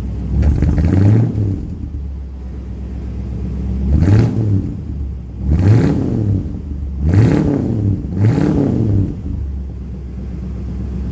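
1960 Ford Starliner's 292 Y-block V8 running through straight pipes with glass-pack mufflers, blipped about five times so the revs rise and fall back, then settling to a steady idle near the end.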